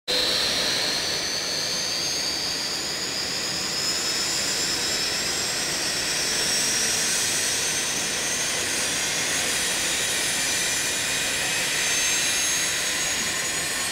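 Avro RJ85's Honeywell LF507 turbofan engine starting up: a high whine slowly rising in pitch over a steady rushing noise as the engine spools up.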